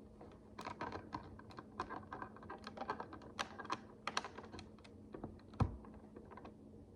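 Micro bricks, miniature plastic building bricks, clicking and clattering as they are handled and pressed together: a quick irregular run of small clicks, with one sharper knock about five and a half seconds in.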